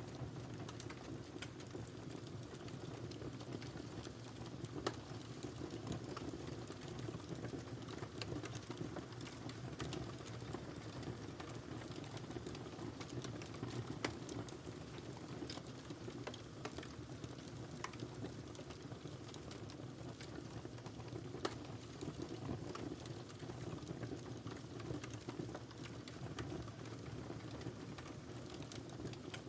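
Wood fire crackling: a steady low rumble of flames with frequent small pops and snaps, and a few sharper, louder cracks spread through.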